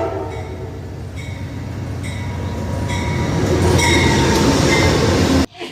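Amtrak passenger train led by a P42DC locomotive passing close by: a rumble of engine and wheels on rail that grows steadily louder, with thin high squealing tones over it. The sound cuts off suddenly near the end.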